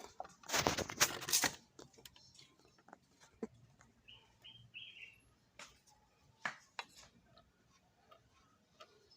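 A burst of clattering knocks, then scattered clicks and knocks from parts and tools being handled. A bird chirps three short times around four to five seconds in.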